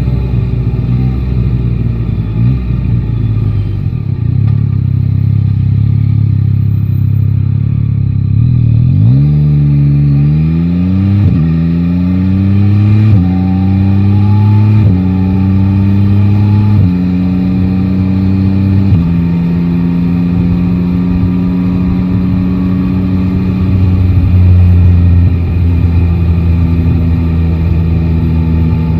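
Yamaha Tracer 9 GT's inline-three engine running low and fairly steady for several seconds, then pulling away. Its note rises and drops back with each of a series of upshifts, then settles to a steady cruise.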